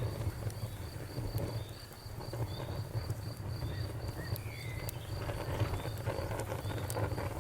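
Wood fire crackling, with scattered sharp pops over a low steady rumble, while an insect chirps in a high, evenly repeating pulse throughout.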